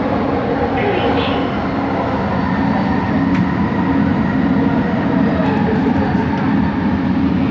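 Bombardier Innovia ART 200 linear-induction-motor train running, heard from inside the car: a steady running rumble with a faint humming tone from the motors.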